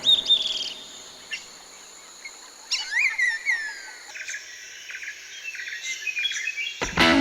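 Several birds calling: short, sharp, falling whistled notes, then a run of quick chirps, over a faint steady high insect buzz. Music cuts back in near the end.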